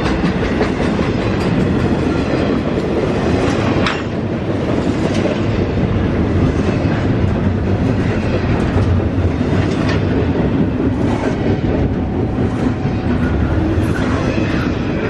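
Norfolk Southern freight train rolling past, a loud steady rumble of railcar wheels on the rails with scattered clicks.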